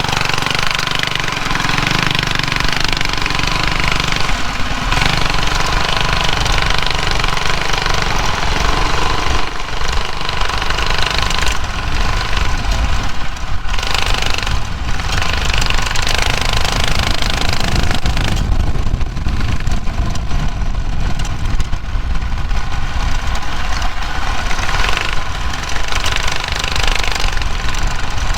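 Drag racing mini bike's small engine running as the bike is ridden, a steady loud mechanical rattle with low rumble, easing off briefly a couple of times.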